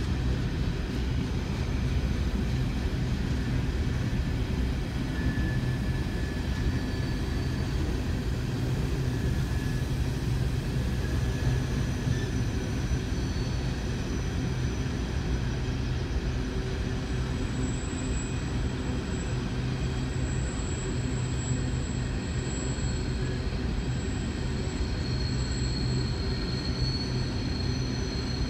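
Coal hopper cars of a freight train rolling steadily past: a continuous rumble of steel wheels on rail, with faint high-pitched squeals coming and going.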